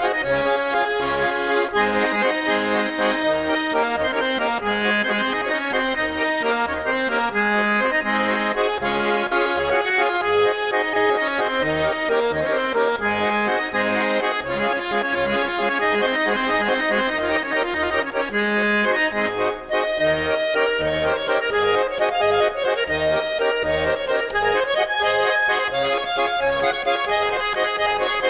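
Instrumental folk tune played on an accordion, sustained chords and melody over short, regular bass notes.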